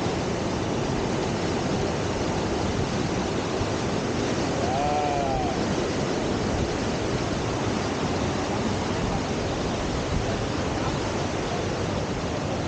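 Steady rush of river whitewater pouring through a standing surf wave. About five seconds in, a brief call rises and falls over the rush.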